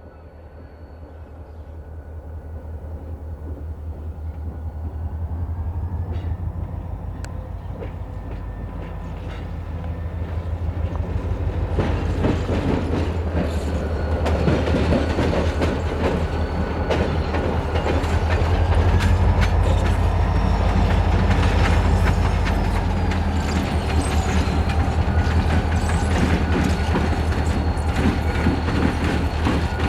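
Freight train hauled by EMD diesel locomotives, a GP38 and an FP7A, approaching and passing. The low engine throb grows steadily louder for about twenty seconds, and from about halfway in the wheels clack over the rail joints as the locomotives and cars go by.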